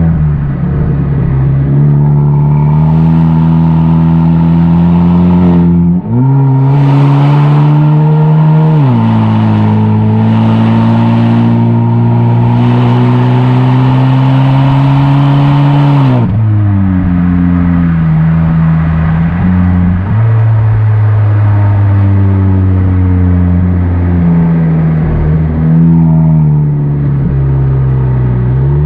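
Tuned exhaust of a Kia K5 DL3 with the 1.6-litre turbo four-cylinder, under way. The exhaust note rises under throttle, steps up sharply about six seconds in and drops at a gear change about nine seconds in, then climbs slowly again. About halfway through the pitch falls as the throttle eases, and it goes on cruising with smaller rises and falls.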